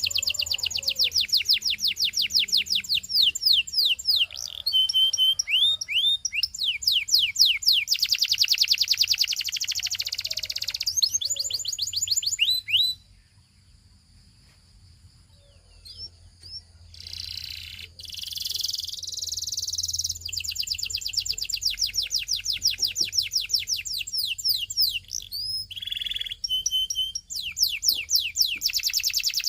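Belgian singing canary singing: fast trills of rapidly repeated high notes mixed with a few short held whistles, falling silent for a few seconds around the middle before starting again.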